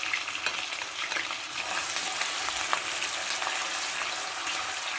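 Chopped onion sizzling and crackling in hot rapeseed oil with garlic and ginger paste, being stirred in the pan.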